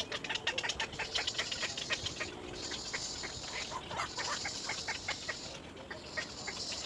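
Baby birds chirping rapidly and repeatedly, with short high calls crowding one another, typical of nestlings begging for food. A high hiss comes and goes in stretches of a second or two.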